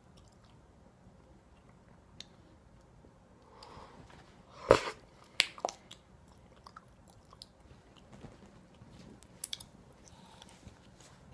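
Cockapoo puppy chewing and gnawing on something: scattered small clicks and crunches, with a louder knock about four and a half seconds in.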